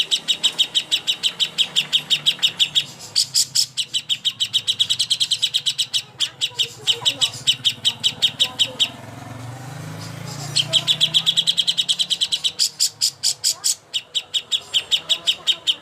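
A songbird chattering in fast, even runs of sharp, high notes, about five a second, the kind of long rattling 'nyerecet' song used as a masteran for training competition greater green leafbirds. The runs break off briefly a little past halfway, leaving a low background hum before they resume.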